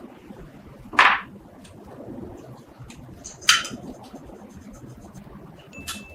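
Two sharp metallic knocks about two and a half seconds apart, the second with a short ring, then a lighter clink near the end that leaves a brief ringing tone.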